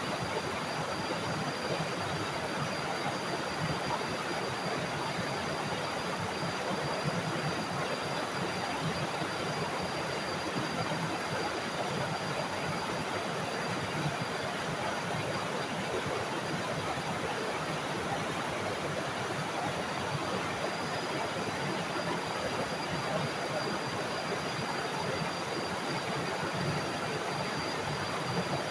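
Small forest waterfall: water rushing steadily with no breaks.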